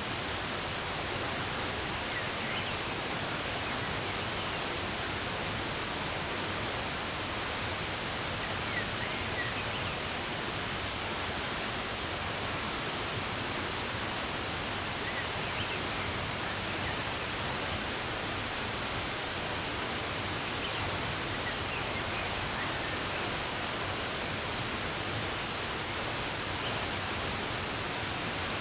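Steady rush of running water, with faint short bird chirps now and then over it.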